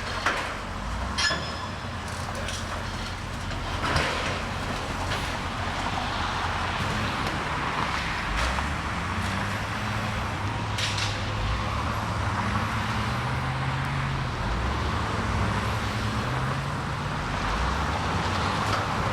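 Heavy diesel machinery working, its engine pitch rising and falling as it is worked, with sharp knocks and bangs in the first few seconds, the loudest about four seconds in, and another about eleven seconds in.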